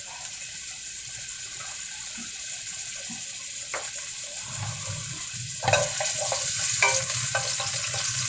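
Chopped garlic sizzling as it fries in olive oil in a pan. The sizzle grows louder about two-thirds of the way through, with scattered clicks of a utensil stirring against the pan.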